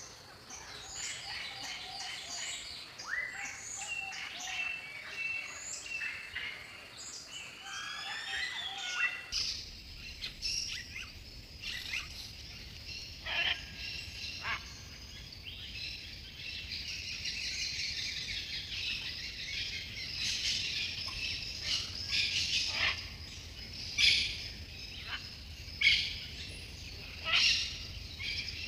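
Wild birds singing and calling with many short chirps and whistled phrases. About nine seconds in the recording changes to another one, where repeated sharp high calls stand out, the loudest ones coming near the end.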